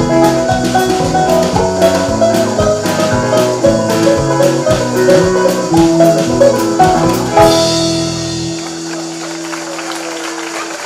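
Live country rock band playing the instrumental close of a song, with drums keeping a steady beat. About seven seconds in the band hits a final chord with a cymbal crash and lets it ring out, fading.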